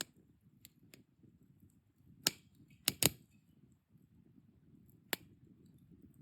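Wood fire crackling: several loud sharp pops a little over two and three seconds in and again near the end, with smaller ticks and a soft low rumble of burning underneath.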